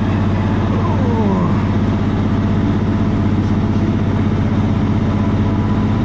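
Passenger train running as it pulls out of the station, heard from inside the carriage: a steady low engine drone.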